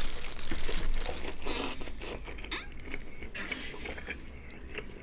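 A person chewing a mouthful of pan-seared whole pork belly bacon, with wet crunching that is loudest for the first couple of seconds and then settles into softer chewing.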